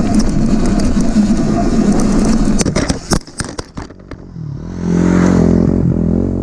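Dirt bike riding over rough trail: steady rumble and rush of riding noise, then a rapid run of knocks and rattles, then a steady motor drone that swells up near the end.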